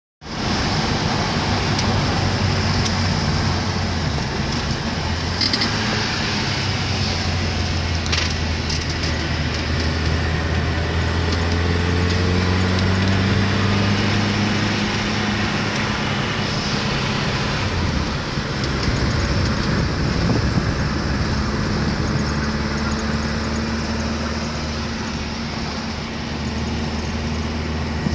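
Fiat 1500 Coupé's four-cylinder engine running continuously on the move, its note climbing slowly as it pulls, easing off briefly about two-thirds of the way through, then climbing again.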